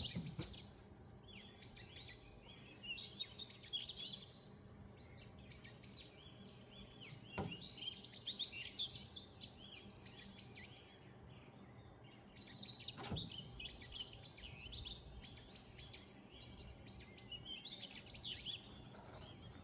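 Several songbirds chirping and singing in a dense chorus of quick, high notes that swell in bursts of a few seconds and ease off between them.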